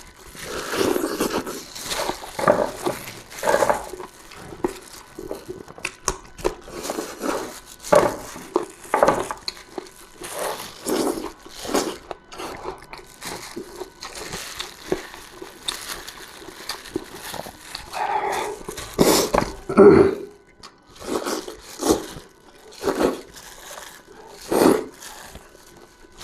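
Close-miked mukbang eating sounds: irregular chewing, smacking and slurping of soft, well-stewed food.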